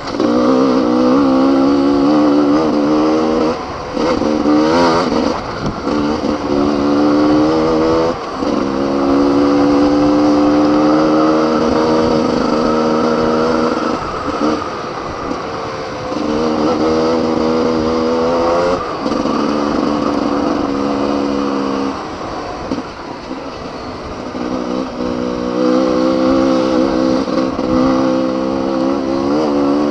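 Enduro dirt bike engine heard onboard the rider's own machine, running hard under throttle. Its pitch climbs and drops as he shifts gears and rolls the throttle on and off, with short dips several times.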